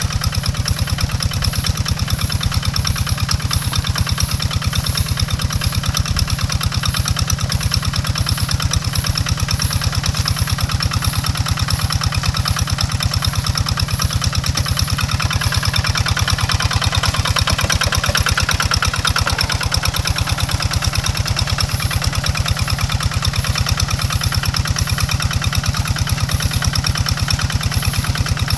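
Tractor engine running steadily with a fast, even pulse while tilling farmland.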